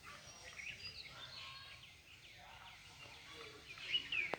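Birds calling: many short, scattered chirps, with a louder call sweeping downward near the end.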